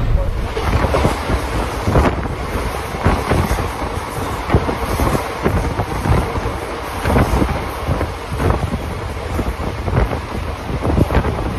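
Passenger express train running, heard at its open coach doorway: a steady rush of wind on the microphone with irregular clattering knocks from the moving train.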